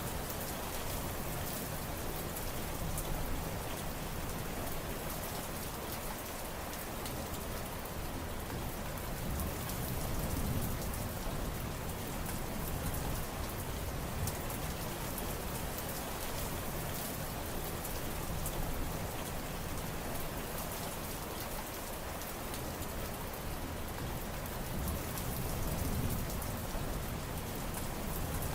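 Steady rain falling, a dense even hiss with many fine drop patters, swelling gently in level now and then.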